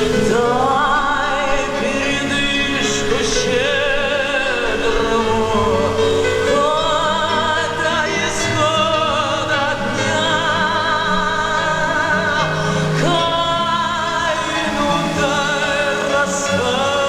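Music with an operatic singing voice holding long notes with a wide vibrato over instrumental backing.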